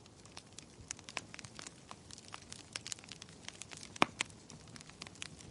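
Wood fire in a fireplace crackling, with irregular sharp pops and snaps over a faint hiss; the loudest pop comes about four seconds in.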